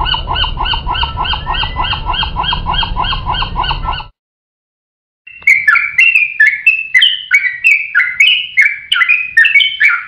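A ring-billed gull calling in an even, rapid series of about four notes a second for about four seconds, over a low rumble. After a second's pause, a fledgling songbird chirps repeatedly, about three calls a second, each call jumping up and down in pitch.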